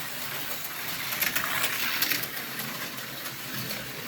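HO-scale slot car running on a plastic track: a small electric motor whirring, with the pickup shoes and wheels clicking over the rails. It grows louder about a second in as the car passes close, then eases off.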